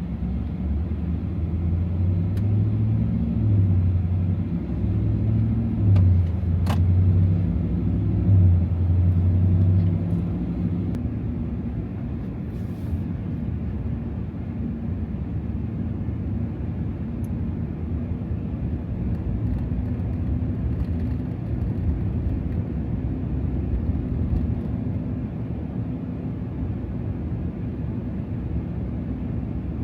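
Supercharged 6.2-litre V8 of a 2024 Ram TRX pickup running as the truck is driven, its note rising and falling through the first ten seconds or so, then settling to a steadier low drone. A single sharp click about seven seconds in.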